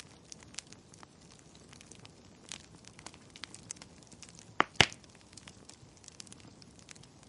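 Wood fire crackling, with irregular small snaps and two loud pops close together a little past halfway.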